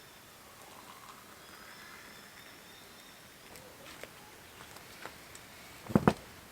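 Quiet outdoor ambience with a few faint high chirps, then two sharp knocks close together just before the end.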